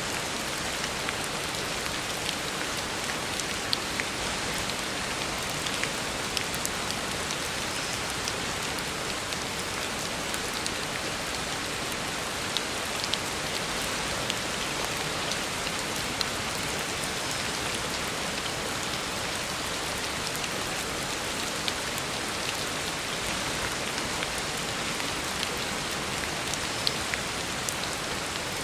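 Heavy rain falling steadily on a road surface, an even hiss with scattered sharper taps of individual drops.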